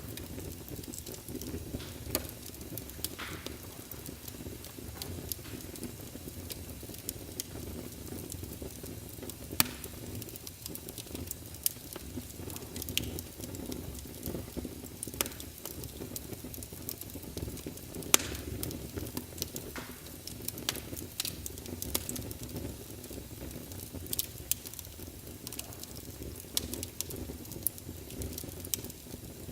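Wood fire burning in a fireplace, crackling steadily over a low rumble, with scattered sharp pops from the burning logs.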